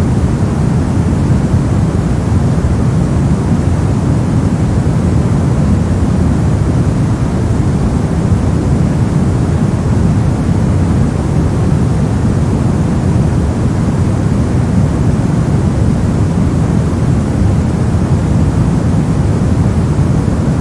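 Steady, unbroken noise of a generated white-noise sleep track, deep and rumbly rather than hissy, with no change in level.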